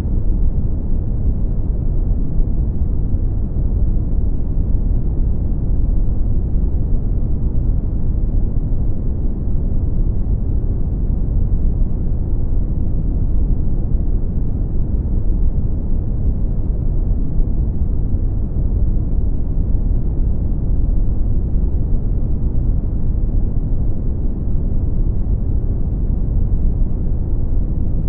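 Brown noise: a steady, deep hiss weighted heavily toward the low end, with no change in level.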